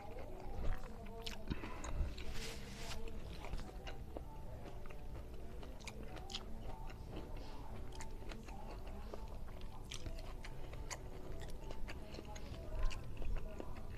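Close-up chewing and wet mouth clicks of a person eating a mouthful of rice and side dishes, a little louder about a second in and again near the end, over soft background music.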